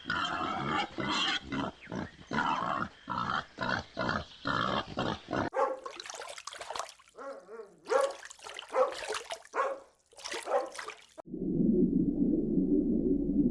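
Animal calls from several different recordings played one after another: a quick run of short calls for the first five seconds or so, then a sparser set of calls, and in the last two seconds a steady low rumbling noise.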